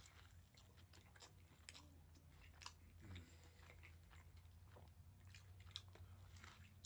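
Faint chewing and biting: scattered soft mouth clicks and crunches from someone eating, over a low steady hum.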